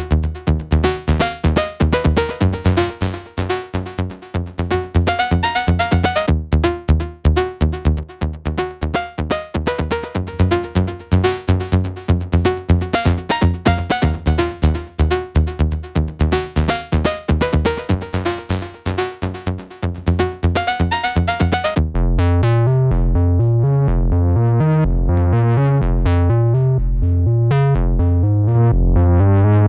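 Electronic music demo: a drum-machine beat with software synth parts, dense and rhythmic. About 22 seconds in it switches to a synth bass line of repeating low notes with little high end.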